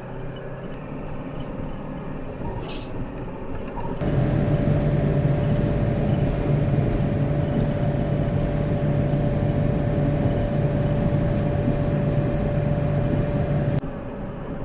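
Ford ambulance-conversion camper truck driving: steady engine and road noise. It gets abruptly louder about four seconds in and drops back near the end.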